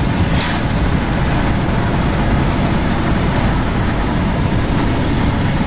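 Car driving at highway speed, heard from inside the cabin: a steady rumble of road and engine noise, with a brief hiss about half a second in.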